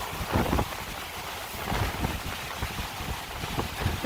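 Gale-force wind gusting over 50 mph, buffeting the microphone in irregular low rumbles over a steady rushing roar.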